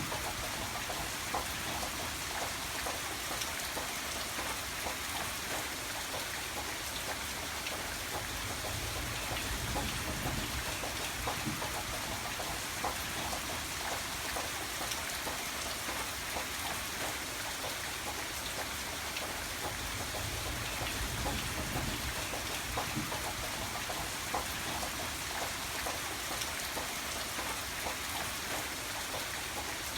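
Steady rain falling, an even hiss dotted with many small, distinct drop hits, over a low, slowly shifting rumble.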